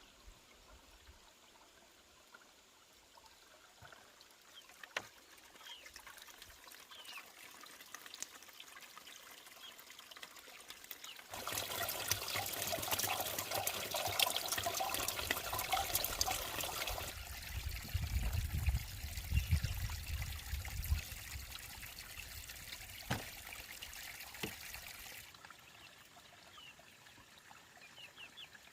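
Water pouring and splashing. It starts suddenly about a third of the way in, is loudest for several seconds, then carries on lower and heavier before dying away near the end.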